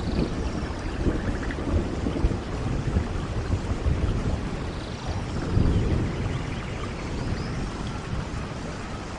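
Steady rainfall with low rolling rumbles of thunder; the loudest rumble swells up about halfway through.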